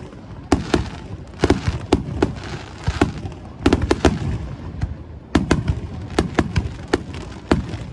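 Fireworks display shells bursting in an irregular, rapid volley of sharp bangs, several in quick pairs and clusters, with a low rumble between them.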